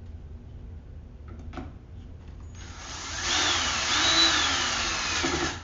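Ryobi power screwdriver running for about three seconds, its motor whine rising and falling in pitch, as it drives a small Phillips screw.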